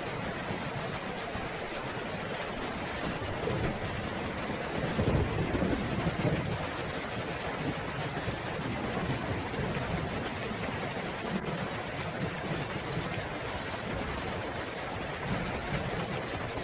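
Steady heavy rain hissing, with a low roll of thunder that swells from about three and a half seconds in and fades by about seven seconds.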